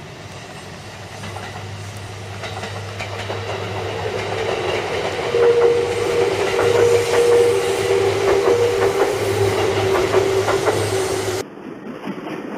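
Seibu Railway electric train drawing near and passing, its wheels clicking over rail joints with a steady whine, growing louder. The sound cuts off abruptly near the end to a quieter, different train sound.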